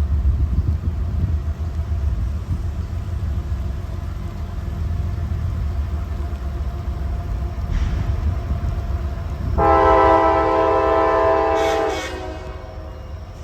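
Deep rumble of idling CSX diesel freight locomotives, then one loud horn blast of about two seconds, a chord of several tones, about ten seconds in.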